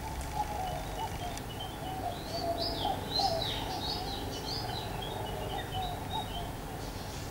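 Wild birds calling in the bush: a run of quick, high chirps in the middle, over a steady line of shorter, lower warbling calls and a low background hum.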